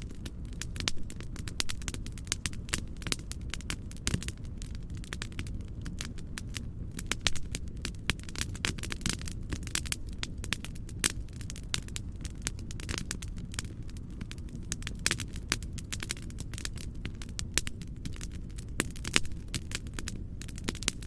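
Wood fire crackling, with frequent irregular pops and snaps over a steady, low, rushing noise bed.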